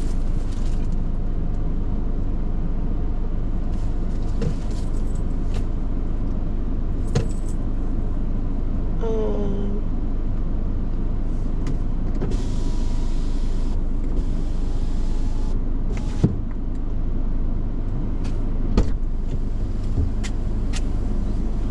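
Steady low rumble of a car heard from inside the cabin, with a few light clicks and knocks and a stretch of hiss about halfway through.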